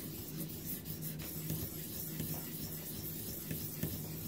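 Sharpening stone of a guided knife sharpener rubbing back and forth along the steel edge of a recurve knife blade, reprofiling the second side.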